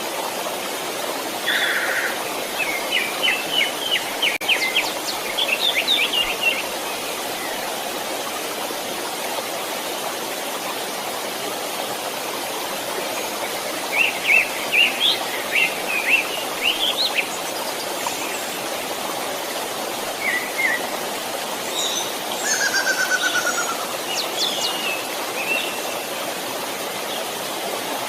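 A creek running steadily, with songbirds singing over it in three spells of quick chirping phrases, each a few seconds long: near the start, in the middle and toward the end.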